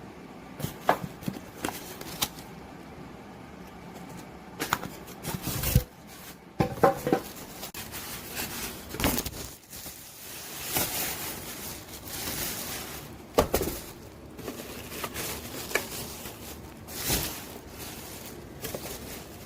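Handling noises: a scattering of clicks and knocks among rustling, with the loudest knocks about 5 and 13 seconds in.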